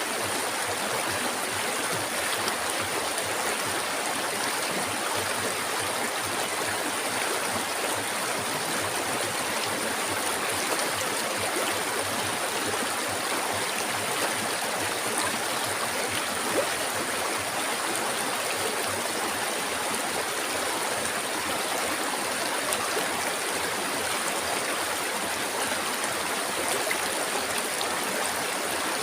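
River water flowing, a steady, even rush without breaks, with a thin steady high-pitched hiss above it.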